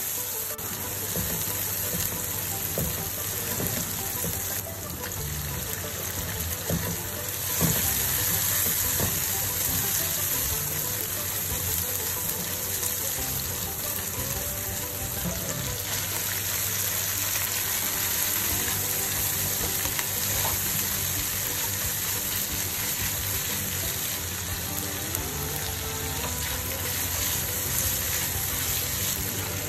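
Chilli-belacan paste with prawns and water spinach sizzling in hot oil in a nonstick wok, with a spatula stirring and scraping. The sizzle grows louder about eight seconds in. Soft background music with a melody plays underneath.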